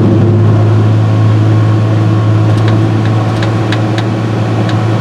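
Harvester's John Deere 6068 six-cylinder diesel engine running steadily with an even, deep hum, while the new thermostat is being checked for opening and closing. About five light, sharp clicks come in the middle.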